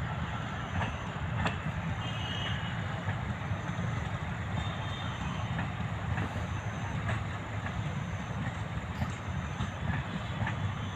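Indian Railways train running on the track: a steady low rumble with a few sharp clicks scattered through it.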